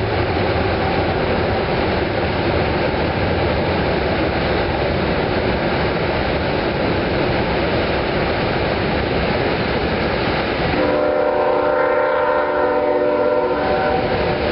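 A waterfall's heavy steady roar mixed with a CSX intermodal container freight train rolling across the bridge above it. About eleven seconds in, a locomotive horn sounds one held chord for about three seconds, then stops.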